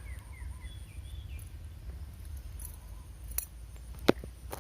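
Birds chirping, a quick run of short falling chirps in the first second or so, over a steady low rumble. Near the end come a few sharp clicks, the loudest about four seconds in.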